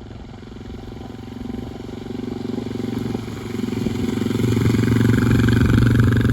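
Motorcycle engine running, getting steadily louder and peaking near the end.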